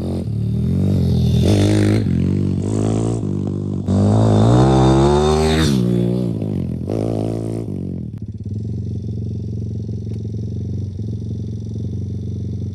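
YCF pit bike's single-cylinder four-stroke engine revved in a run of rising throttle bursts, the longest climbing for about two seconds, then settling to a steady idle about eight seconds in.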